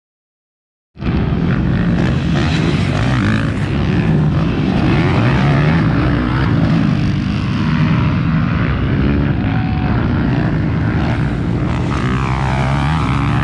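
250cc motocross motorcycle engines racing, their revs rising and falling with overlapping engine notes. The sound starts suddenly about a second in and stays loud.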